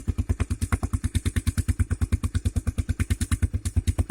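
Dirt bike engine idling close by, an even, steady putter of about twelve firing pulses a second.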